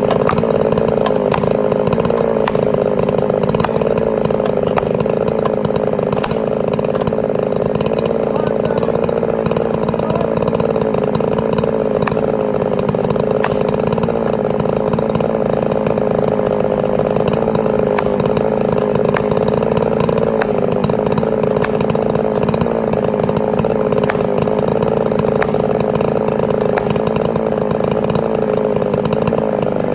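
Chainsaw running steadily at high revs for the whole stretch, its pitch wavering slightly, while cutting timber during felling.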